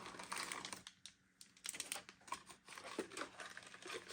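Faint rustling and crinkling of packaging with small scattered clicks, as small parts such as plates and bagged screws are taken out of a PC component box.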